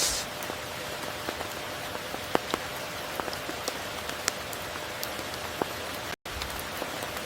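Steady heavy rain falling as an even hiss, with individual drops ticking sharply here and there. The sound cuts out completely for an instant about six seconds in.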